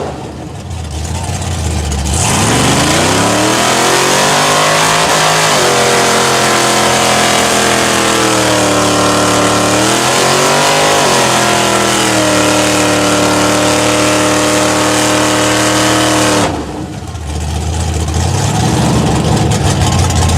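Mud truck engine revving hard. The revs climb over a few seconds, dip and climb again, hold high for several seconds, then drop back to a low rumble near the end.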